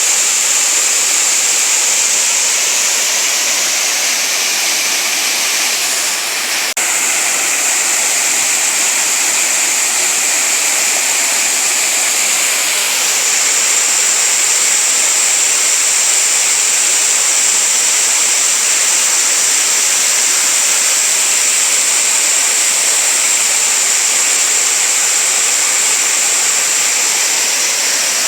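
Small waterfalls and a stream, with water falling and rushing in a steady, loud splashing hiss.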